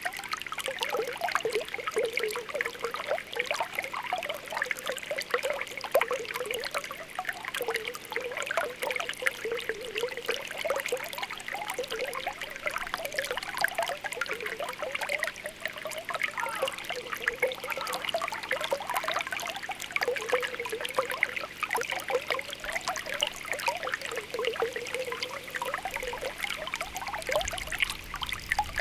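Spring water welling up with a continuous, quick popping and bubbling, the small pitched bubble pops (ポコポコ) following one after another over a steady trickle.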